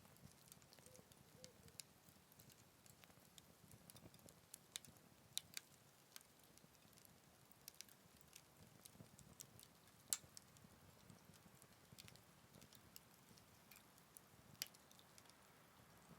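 Wood fire burning in a Picogrill 398 fire stand, crackling softly with scattered sharp pops at irregular intervals, the loudest about ten seconds in.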